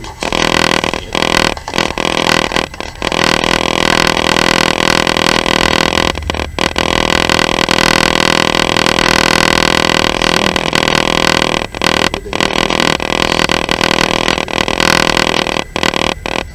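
Loud, steady rushing noise of a moving passenger train heard from inside the carriage, dipping briefly a few times.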